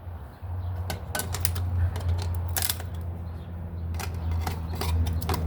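Irregular sharp clicks and taps of tools and fasteners as the cover plate over the oil filter is refitted under the car, over a steady low hum.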